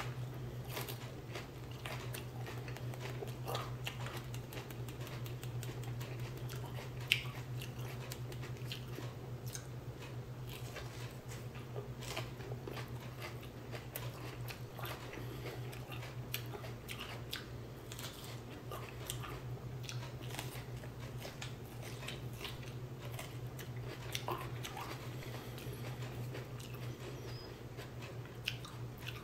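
A person biting and chewing raw, thick-walled Stocky Golden Roaster sweet pepper, with scattered small crunching clicks over a steady low hum.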